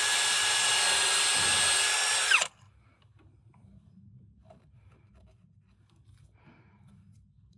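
Handheld electric power tool running at a steady high whine, then released about two and a half seconds in, its motor winding down in pitch. Faint small clicks and handling noises follow.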